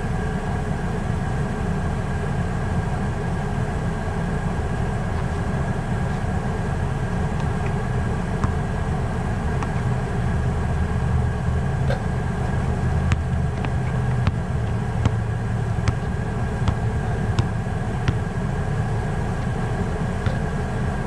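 A vehicle engine idling: a steady low rumble with a faint steady whine above it. From about eight seconds in, a series of short sharp taps sounds over it.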